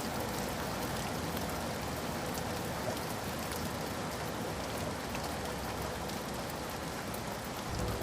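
Steady rain falling on a surface, a dense even hiss with scattered drop ticks; a deeper rumble comes in just before the end.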